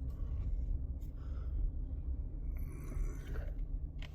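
Steady low rumble of a vehicle heard from inside the cab, with an even engine hum that comes in partway through.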